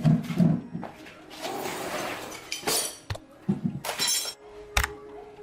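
Metal engine parts knocking and clinking as they are handled and fitted, with a scraping, rustling stretch in the middle and several sharp clanks near the end, over a faint steady hum.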